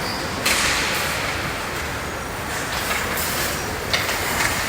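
Hockey rink play: skate blades scraping and carving the ice in hissing bursts over a steady arena rumble, with a sharp click about four seconds in.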